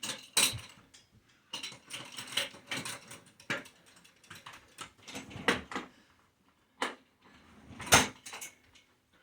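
Irregular clicks, rattles and knocks from a Total Gym home exercise machine being handled and set up, with one loud knock about eight seconds in.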